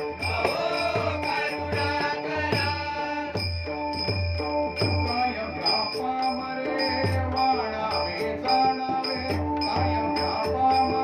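Marathi devotional bhajan music. A voice sings for the first few seconds over steady held harmonium notes, while a drum and small hand cymbals keep an even beat throughout.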